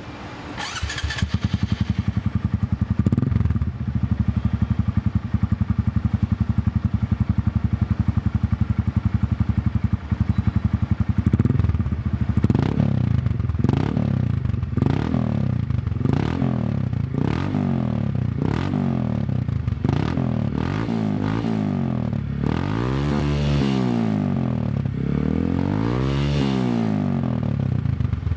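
Honda MSX125 (Grom) single-cylinder engine with an aftermarket twin-exit muffler, idling steadily. About eleven seconds in, the throttle starts being blipped in short revs about once a second, and two longer, higher revs follow near the end.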